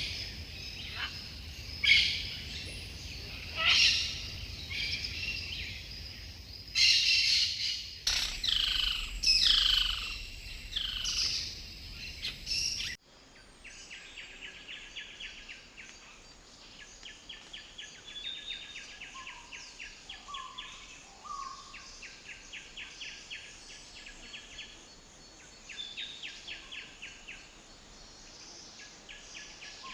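Forest birds singing and calling: loud, sharp calls with quick falling notes, then an abrupt change about thirteen seconds in to quieter songs made of fast repeated trilled notes in phrases of a few seconds each.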